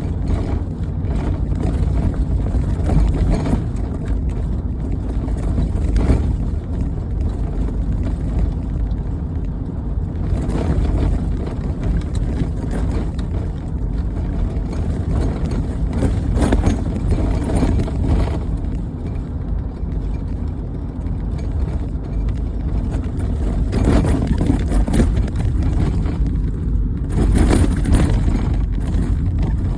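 A vehicle engine running steadily, with short louder surges now and then.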